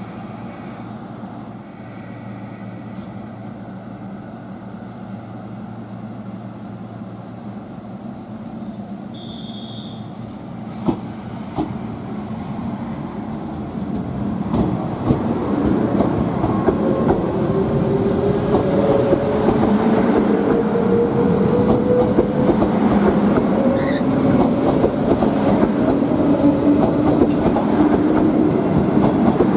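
A train rolling past, its wheel noise and rail clatter building from about halfway and staying loud, with a steady tone that slowly rises in pitch. A short high tone sounds about a third of the way in.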